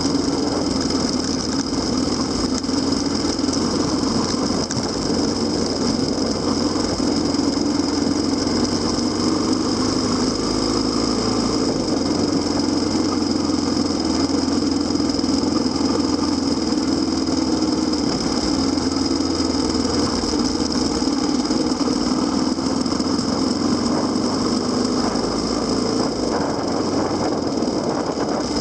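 Kawasaki KLX250SR single-cylinder four-stroke motorcycle engine running steadily, its pitch wavering only slightly.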